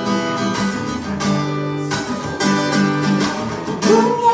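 Acoustic guitar strumming a steady run of chords.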